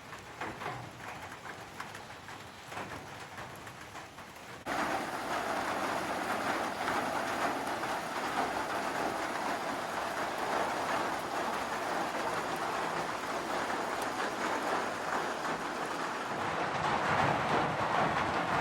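Rain falling, with scattered drips at first. About a third of the way in it steps abruptly up to a louder, steady hiss of heavier rain.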